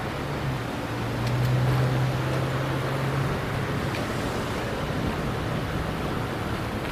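A vehicle engine running at idle: a steady low hum that swells about a second in and fades after about three seconds, over a steady rushing background noise.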